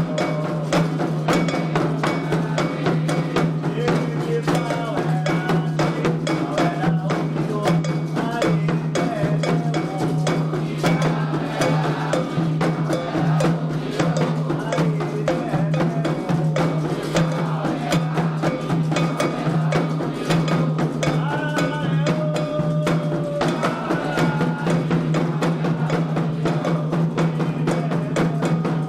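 Candomblé ritual drumming for a xirê: atabaque hand drums played in a fast, dense rhythm with a struck agogô-type bell, under singing voices.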